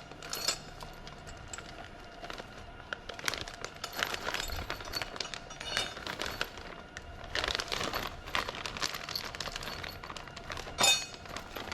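Hardware and accessories being handled: plastic packaging crinkling and small metal parts clinking, with one louder sharp click near the end.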